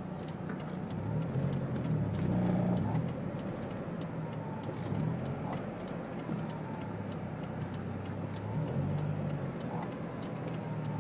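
Supercharged 2.4 L four-cylinder engine of a Pontiac Sunfire idling, heard from inside the cabin as a low steady hum.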